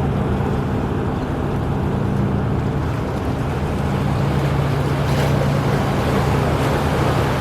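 A boat's diesel engine running with a steady low hum, under a wash of water and wind noise that grows stronger about halfway through.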